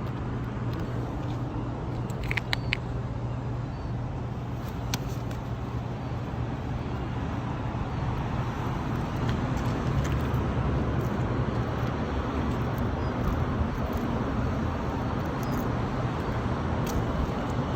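Steady downtown traffic rumble with a constant low hum, heard from a rooftop, with a couple of brief high chirps a few seconds in.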